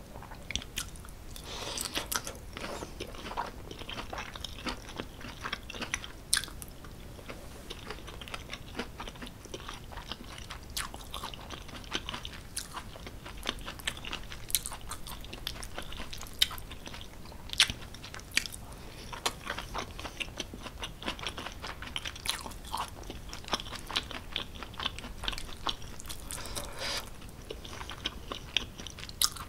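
Close-miked chewing of creamy cheese-stuffed tortellini pasta with peas and vegetables: soft wet mouth clicks and smacks as the pasta is bitten and chewed.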